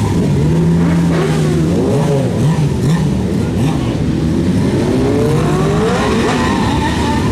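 Several motorcycle engines revving at once, overlapping. Their pitch rises and falls in quick blips, with one longer rev climbing about five seconds in.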